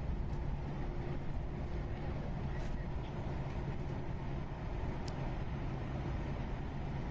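Steady low rumble of jet engines, with a faint steady hum running under it.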